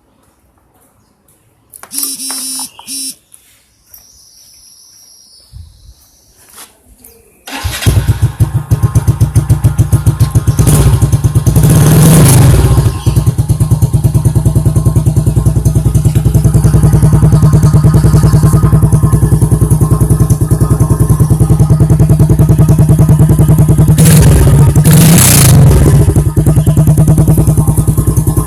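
Yamaha Jupiter Z1's single-cylinder four-stroke engine, fitted with a Honda Tiger Revo exhaust, starting up about seven seconds in and then running loud at idle with a rapid, even firing pulse. It is revved briefly twice, once shortly after starting and again near the end.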